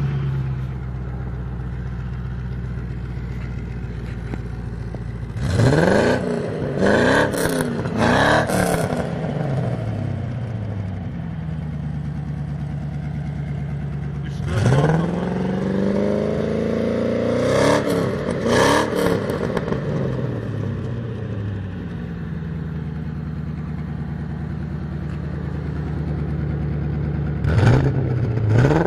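Range Rover's 3.9-litre V8 exhaust, idling steadily and revved with quick throttle blips. There are three short blips about five seconds in, a longer rev followed by two blips around the middle, and two more blips near the end.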